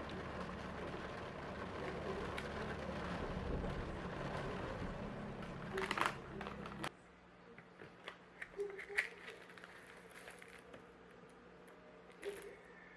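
A small kitchen appliance motor runs steadily with a low hum, then switches off suddenly about seven seconds in, leaving a few light clicks and clinks of kitchenware.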